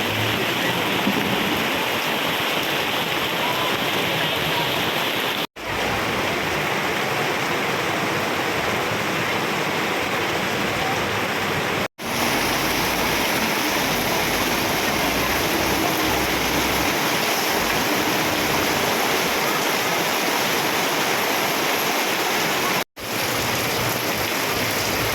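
Heavy rain falling, a steady dense hiss, cut off for an instant three times.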